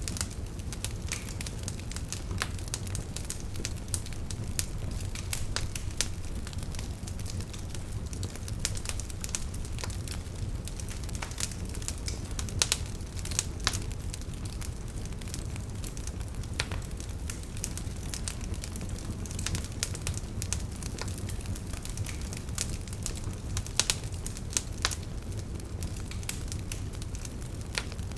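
Fireplace fire crackling: irregular sharp pops and snaps over a steady low rumble, with a few louder pops about halfway through and again later on.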